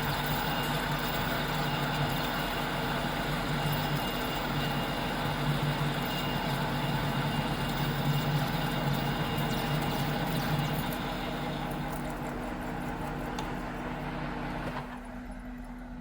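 Metal lathe taking facing cuts on a welded steel plate: a steady machining noise that fades after about ten seconds and drops near the end to the quieter hum of the lathe still running.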